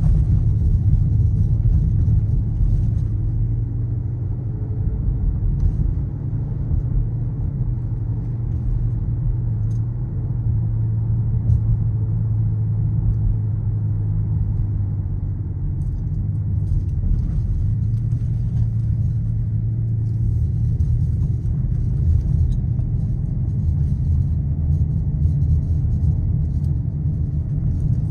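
Skoda Kodiaq RS's 2.0 TSI four-cylinder petrol engine and exhaust at a steady cruise: a low, even drone whose note holds nearly constant, mixed with tyre and road noise.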